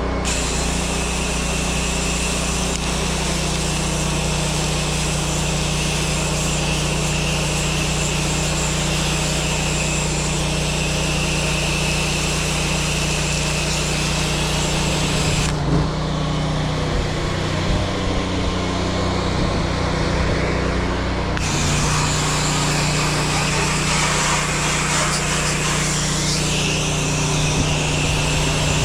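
Pressure washer running steadily with the hiss of its water jet on a surface. The spray stops for about six seconds around the middle while the machine keeps running, then starts again.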